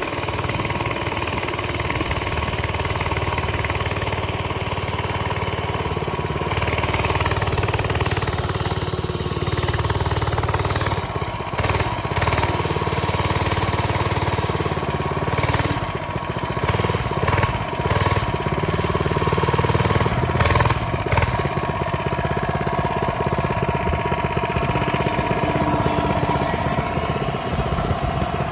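Coleman mini bike's small single-cylinder four-stroke engine running steadily, with a few brief bumps partway through.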